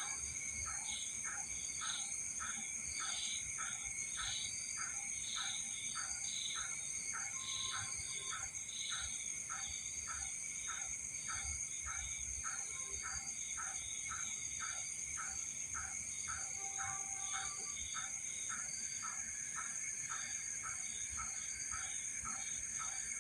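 Night-time animal chorus: steady, high-pitched insect trilling, with a repeating pulsed call about twice a second that keeps a regular rhythm throughout.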